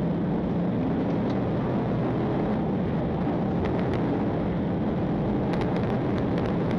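Steady, unbroken vehicle drone, a low rumble of engine and wind or road noise, with a few faint clicks near the end.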